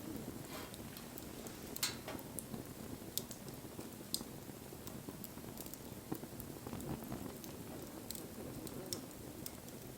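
Wood fire burning: a soft steady rush of flame with scattered sharp crackles and pops, the loudest pop about two seconds in.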